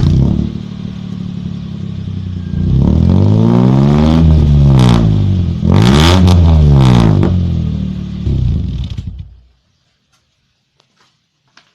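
Engine exhaust through an HKS aftermarket muffler. It idles, is revved twice, each rev rising and falling back, gets a short blip of the throttle, and then is switched off about nine and a half seconds in.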